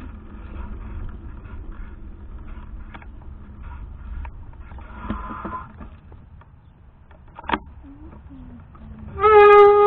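Steady low rumble of wind and tyres on a handlebar-mounted action camera during a bike ride, with scattered small clicks and one sharp click about three-quarters of the way through. Near the end a child's voice gives one loud, long call that rises at the end.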